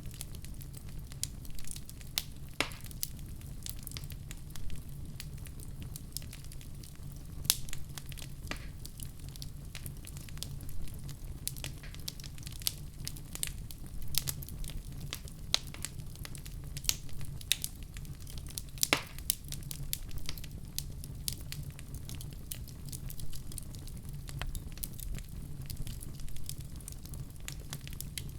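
Wood fire burning in a fireplace: a steady low rumble under frequent sharp crackles and pops, with a few louder pops standing out.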